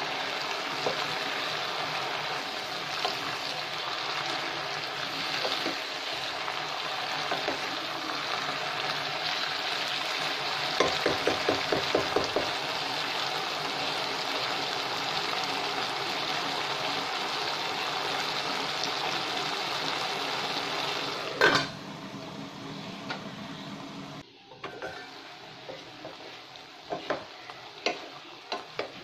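Vegetables sizzling in a pot with a steady frying hiss while a wooden spatula stirs them, knocking against the pot in a quick run about eleven seconds in. A sharp clack comes about two thirds of the way through, after which the sizzle is quieter, with scattered knocks of the spatula near the end.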